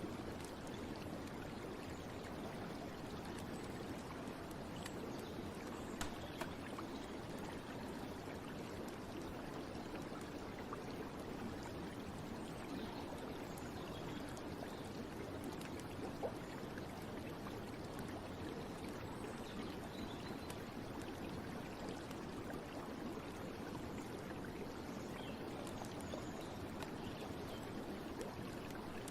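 Steady running water, like a stream, with a couple of faint brief ticks.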